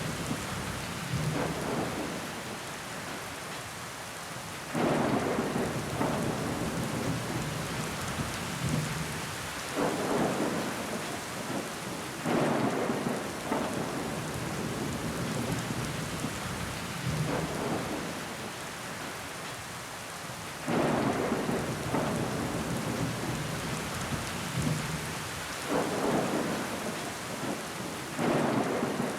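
Steady rain pattering on window glass, with louder swells that start suddenly and fade over a second or two, about six times.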